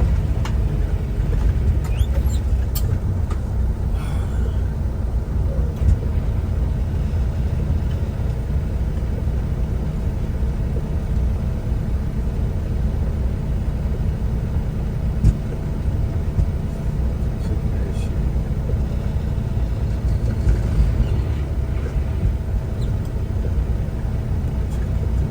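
Semi-truck on the move, heard from inside the cab: a steady low engine and road rumble with a faint steady hum, and a few scattered ticks and knocks.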